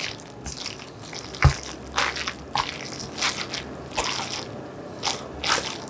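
Close-miked wet chewing of crunchy bean-sprout and fish-cake japchae: a run of short, crisp crunches and mouth smacks, about two a second, with a louder one about a second and a half in.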